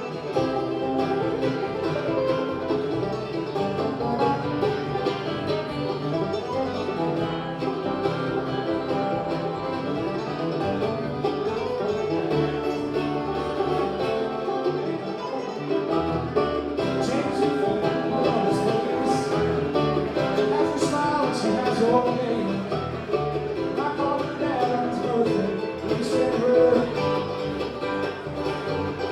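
Live bluegrass band playing a song on acoustic string instruments.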